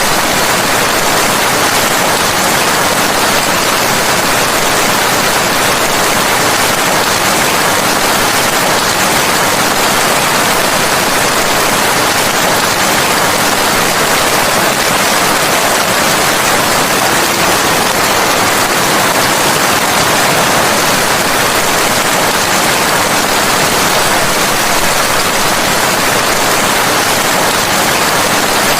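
Rain falling steadily, a dense, even hiss with no single drops or thunder standing out.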